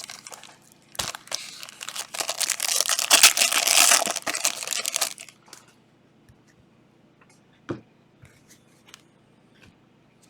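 A trading card pack wrapper being torn open and crinkled for about four seconds, followed by a few soft clicks as the cards are handled.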